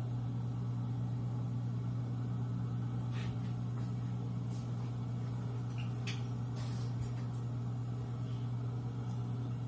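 A steady low hum, like a motor or appliance running, with a few faint light clicks.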